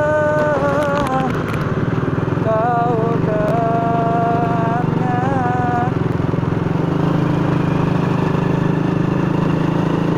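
Honda Astrea's four-stroke single-cylinder engine running steadily under way. Over it for the first six seconds a voice hums a few held, gliding notes.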